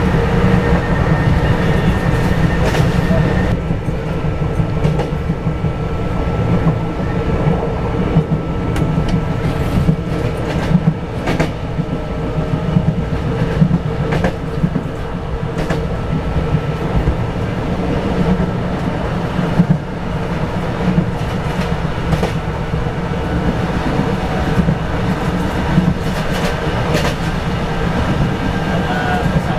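KRL Commuter Line electric train running along the track, heard from inside the front car: a steady rumble, irregular clicks of the wheels over rail joints and a faint steady hum.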